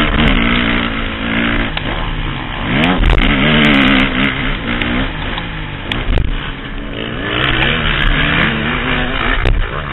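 Motocross bike engine revving hard, its pitch rising and falling repeatedly as the rider opens and closes the throttle and shifts, recorded from the rider's helmet, with scattered sharp knocks.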